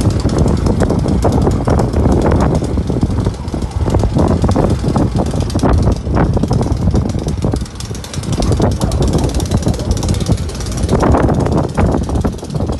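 Snow blower engine running loud and steady, with a rapid pulsing beat.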